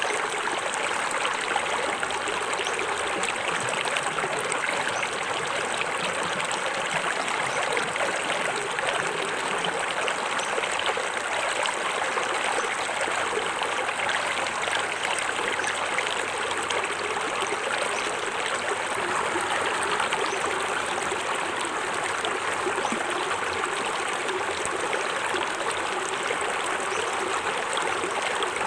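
Small forest waterfall: water falling and splashing over rocks into a stream in a steady, even rush with fine trickling detail.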